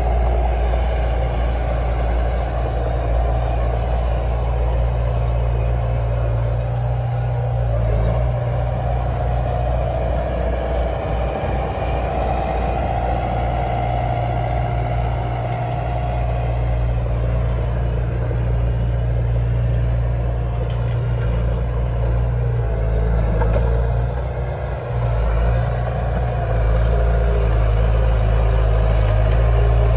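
Heavy diesel engine of earthmoving equipment running steadily, with a higher whine over it for the first half, dipping briefly and then growing a little louder near the end.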